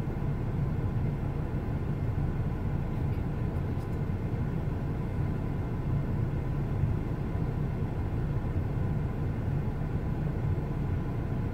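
Steady low rumble of an idling car engine, heard from inside the car's cabin.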